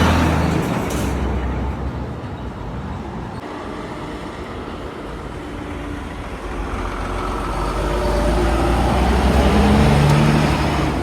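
Lorries passing on a road. One is loud as the sound begins and fades away within a couple of seconds. Another engine then builds up, passes close about nine to ten seconds in with its engine note clearly heard, and fades again.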